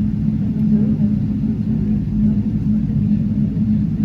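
Steady low rumble of a Boeing 777-300's cabin with its engines running at ground idle, with a constant low hum.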